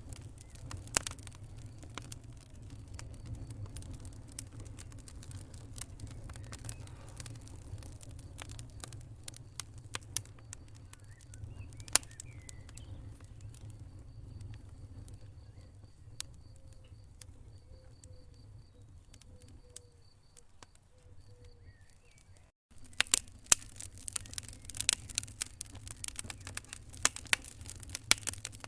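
Wood fire crackling in a fireplace: sharp pops and snaps scattered over a steady low rumble of the flames. The crackling thins out midway, the sound cuts out for an instant about two-thirds of the way in, and then the crackling comes back denser.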